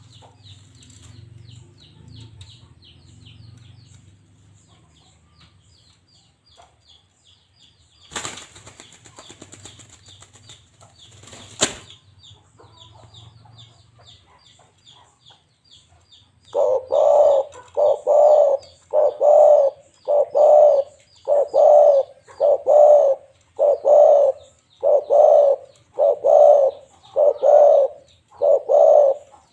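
Balam dove (spotted dove) cooing: from a little past halfway, a loud, low coo repeated about every second and a half. Before that there is fast, high-pitched chirping from a small bird and a few seconds of rustling.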